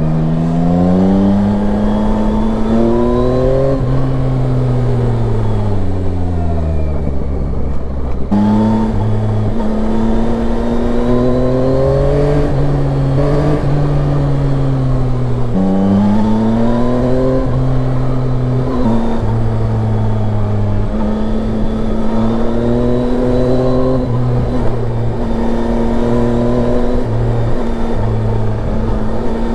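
Yamaha Tracer 9's inline-three engine under way, revving up and easing off several times as the bike accelerates and slows. About eight seconds in the sound changes abruptly. For the last ten seconds or so it pulls at a nearly steady engine speed.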